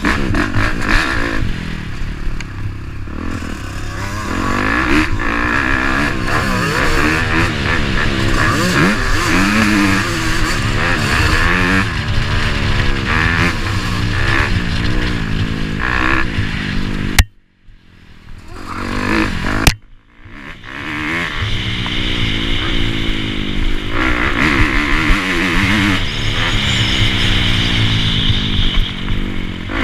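Off-road motorcycle engine revving up and down repeatedly as the bike is ridden hard. The sound drops out abruptly for about two seconds past the middle, then resumes.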